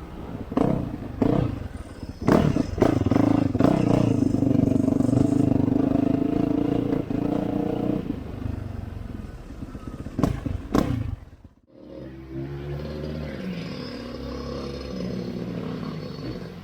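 Off-road motorcycle engine revving in quick throttle blips, then pulling steadily under load. More blips follow. Near the end, after a sudden brief gap, a quieter, steadier engine sound takes over.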